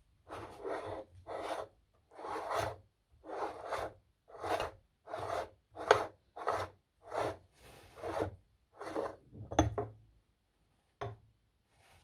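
Meat grinder grinding chocolate candy: a rhythmic rasping scrape, about one stroke every three-quarters of a second, with a short pause before a last stroke near the end.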